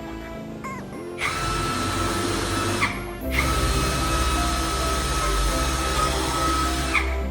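A power tool's electric motor with a high whine, starting and stopping in bursts: it cuts out as the sound begins, runs again from about a second in to about three seconds, then again until near the end. Background music plays underneath.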